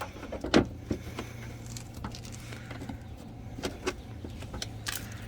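Scattered clicks and knocks of hands working at parts and connectors in a car's engine bay, trying to pull a component free, over a steady low hum.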